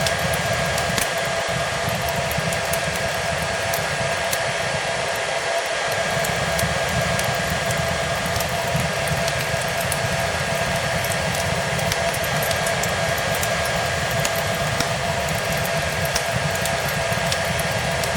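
A hair dryer running steadily: a constant rushing whir with a steady whine. Scattered pops and crackles of a wood fire sound over it.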